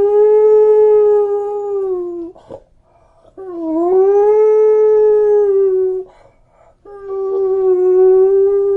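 A dog howling: three long, steady howls, each sliding up in pitch at its start and then held, with pauses of about a second between them.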